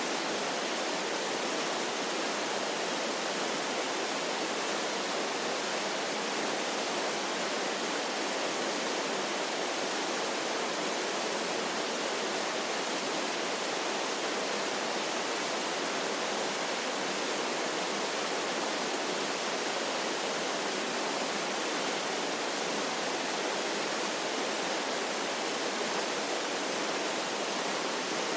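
Waterfall: water falling and splashing in a steady, even rush, without low rumble.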